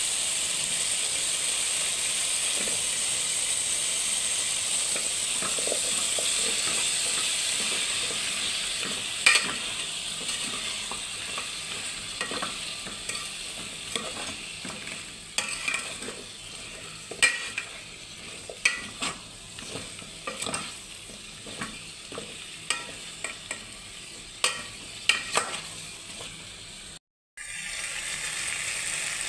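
Food sizzling as it fries in a pan, a steady hiss. From about nine seconds in, a utensil clinks and scrapes against the pan again and again as the food is stirred, and the sound cuts out for a moment near the end before the sizzle comes back.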